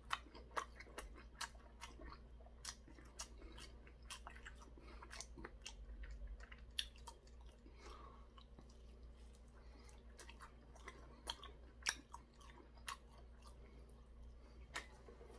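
Close chewing and crunching of a battered, deep-fried green chili pepper: a faint run of small crisp crackles, several a second, over a steady low hum.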